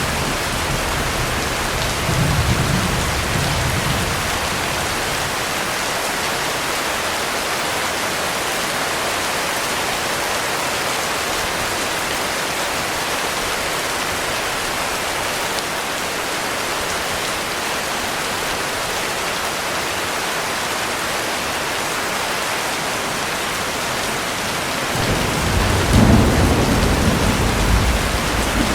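Heavy rain falling steadily, with a low rumble of thunder about two seconds in and a louder, longer roll of thunder near the end.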